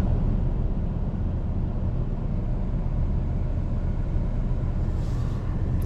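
Steady low rumble of a vehicle's running engine, heard from inside the vehicle.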